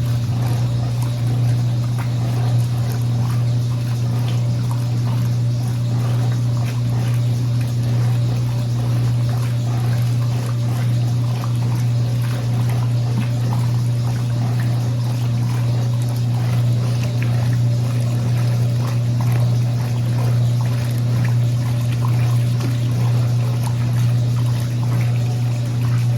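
Brastemp Linea Verona 4 kg top-loading washing machine in its agitation cycle: a loud, steady motor hum with water sloshing around the clothes in the tub.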